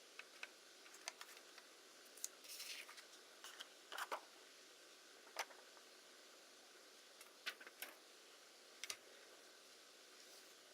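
Faint scattered clicks and short rustles of small hard objects being handled, with several clicks close together about a third of the way in and again near the end.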